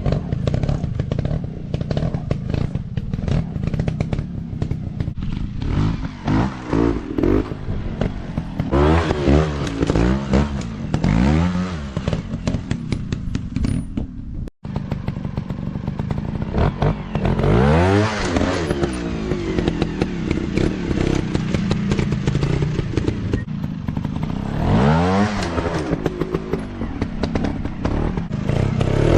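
Off-road dirt bike engines running and revving up and down again and again, with clattering knocks throughout. The sound cuts out for an instant about halfway.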